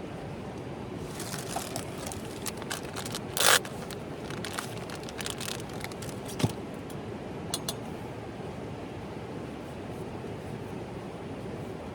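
Scattered scraping and crackling clicks over a steady background hiss, the loudest a short crackle about three and a half seconds in.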